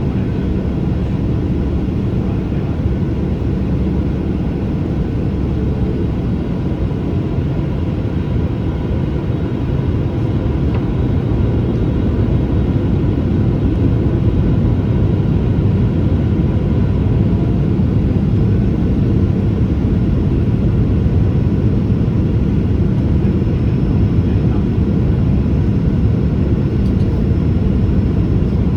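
Boeing 737-800's CFM56 jet engines and airflow, a steady low drone with faint constant tones and no change in level.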